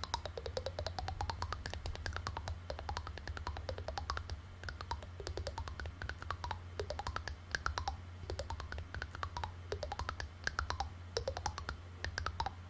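Rapid, light clicking that runs on without a break, with pitched tones gliding up and down every second or so and a steady low hum underneath.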